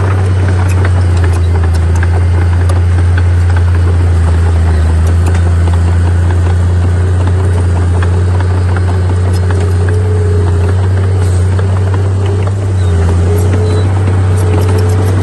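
Heavy diesel earthmoving machinery running steadily under load, a deep constant engine hum with a slightly wavering higher tone over it and scattered clicks and clanks throughout.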